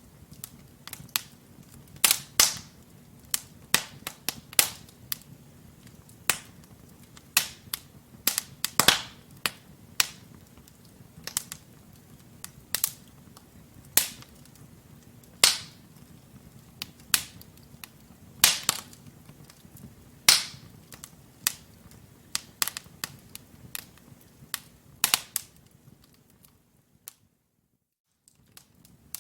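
Burning logs in a wood fireplace crackling: irregular sharp pops and snaps over the low, steady sound of the flames. The sound cuts out for about two seconds near the end, then the crackling resumes.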